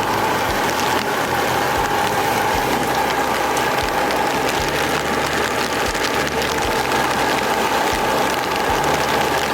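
Steady rushing noise of wind-driven rain, with a low mechanical hum and faint regular knocks underneath.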